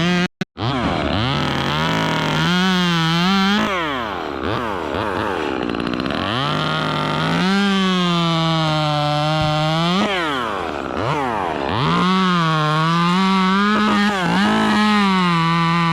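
Gas chainsaw running at high throttle, its pitch sagging and recovering as it cuts. The throttle is let off and the engine drops back sharply several times before revving up again.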